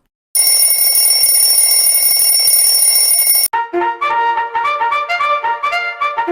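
A loud, steady, shrill electronic alarm tone over a hiss lasts about three seconds and cuts off suddenly. A quick melody of short notes follows.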